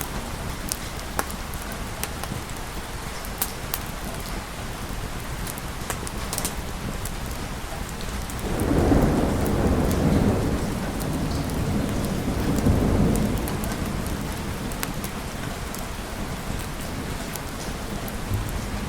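Steady rain with scattered sharp ticks. About halfway through, a roll of thunder rumbles in, swelling twice before dying back into the rain.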